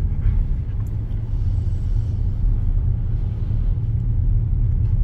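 Steady low rumble of a moving car heard from inside the cabin: engine and tyre noise while driving on a snowy road.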